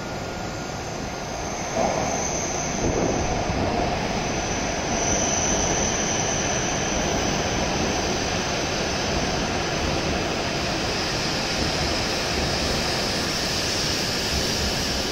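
W7 series Hokuriku Shinkansen train pulling into the station and slowing as its cars slide past along the platform: a steady rush of running noise with a thin high whine. It gets louder about two seconds in as the train comes alongside.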